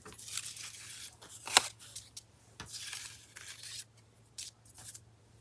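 Paper rustling and sliding as paper flower embellishments are sorted through by hand, in two stretches, with a single sharp tap about a second and a half in.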